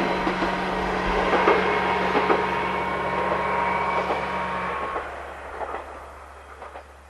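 KiHa 120 diesel railcar running by, with a steady engine note and rail noise and a few knocks of the wheels over rail joints. It fades away over the last couple of seconds.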